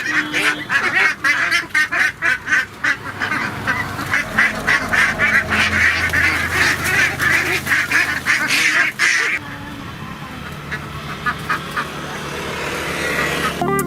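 A flock of domestic waterfowl calls over and over, several calls a second. The calling stops abruptly about two-thirds of the way through, leaving only a few fainter calls.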